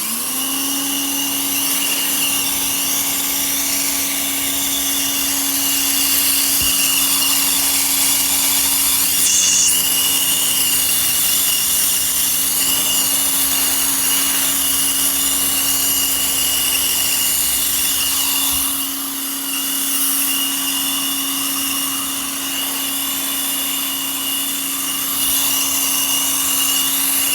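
Pressure washer starting up, its motor rising quickly to speed and then running steadily under a loud hiss of spray, with a brief dip in level about two-thirds of the way through.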